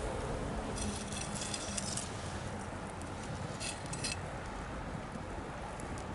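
Wood bonfire crackling, with clusters of sharp pops and snaps about a second in and again near four seconds, over a steady low rumble and hiss.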